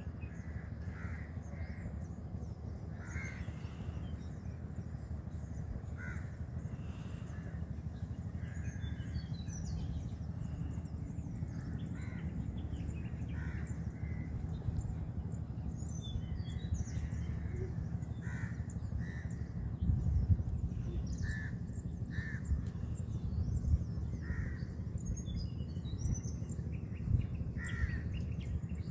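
Birds calling: short calls repeating every second or two, with higher chirps among them, over a steady low rumble that swells briefly about twenty seconds in.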